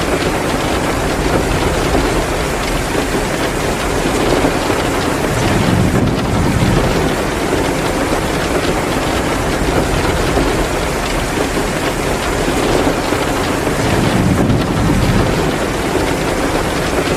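Heavy rain pouring steadily in a dense, loud wash of noise, with a low rumble swelling up twice, about six seconds in and again near the end.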